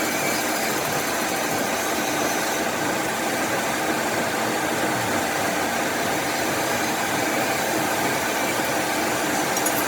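A workshop machine running steadily: an even noise with a few faint steady tones, no pauses or strikes.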